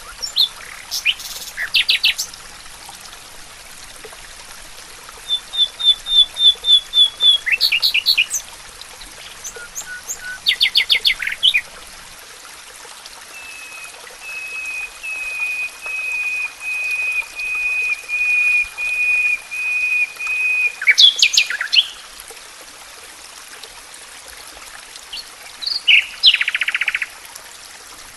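Songbirds calling: scattered chirps and short trills, a quick run of high notes about five seconds in, and a long, even series of repeated notes from about thirteen to twenty seconds, over a steady faint hiss.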